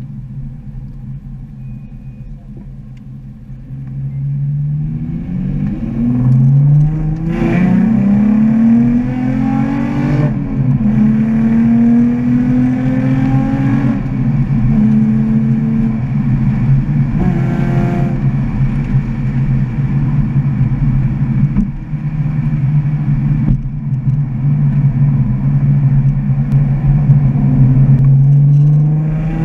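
Nissan 350Z's 3.5-litre V6, heard from inside the cabin: running quietly at first, then from about four seconds in it pulls hard through the gears, its pitch climbing and dropping back at each shift, before settling into steady running for the last ten seconds.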